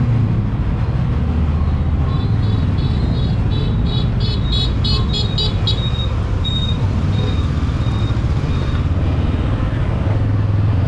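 Steady engine and wind rumble of a motorbike ride on a road with traffic. About two seconds in, a high beeping starts as a quick series of pulses, then slows to a few single beeps.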